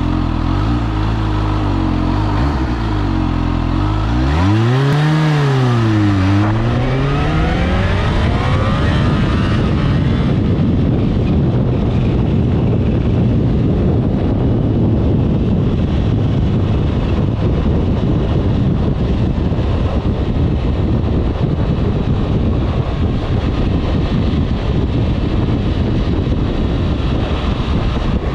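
Kawasaki H2 SX SE+ supercharged inline-four engine running steadily at low revs, then rising, dropping and rising again in pitch as the bike accelerates away, about four to eight seconds in. From then on a steady rushing noise of riding at speed largely covers the engine note.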